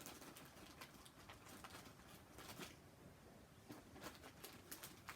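Faint, scattered crinkles and clicks of a plastic snack wrapper being handled, heard as a few irregular ticks at a time, most of them a little after the middle.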